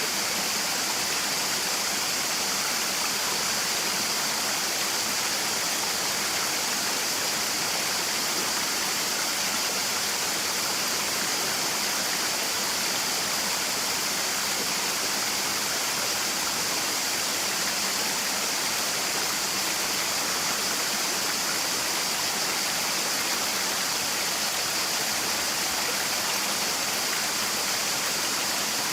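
Rushing water of a stream and waterfall, a steady, even rush with a strong high hiss and no breaks or changes.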